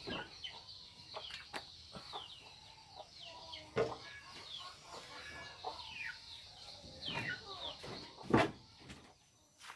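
Birds chirping, a steady run of many short, high chirps that fall in pitch, with a sharp knock about four seconds in and a louder one about eight seconds in.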